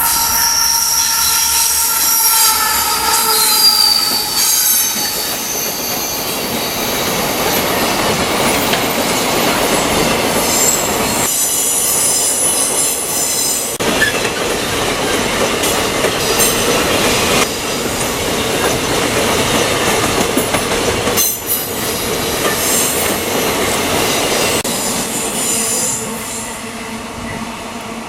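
Freight train rolling past at close range, its wheels rumbling and clattering on the rails with high-pitched squeals from wheels on the track. The sound stays loud and fades near the end as the train passes.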